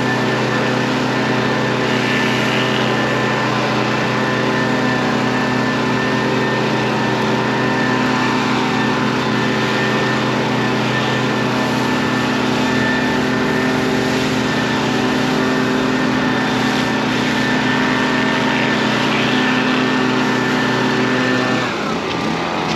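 Gas-engine Stihl RB400 pressure washer running steadily under load, with the hiss of its water spray. Near the end the engine note falls away.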